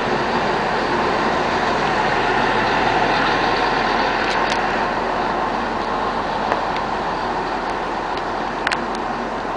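A NordWestBahn train's engine running steadily beside the platform, an even rumble throughout, with a couple of faint clicks near the end.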